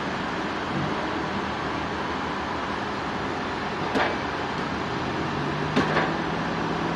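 Machinery running steadily with a low hum. A sharp knock about four seconds in, then two more close together near six seconds.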